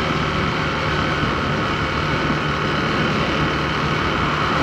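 Motorcycle engine running steadily at low speed in second gear, under a steady rushing noise.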